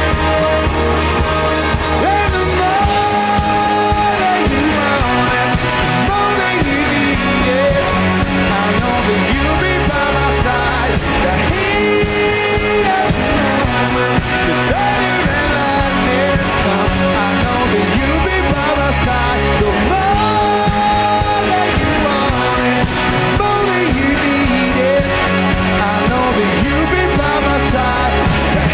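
Rock band playing live at a steady, loud level, with a gliding lead melody over guitars, bass and drums.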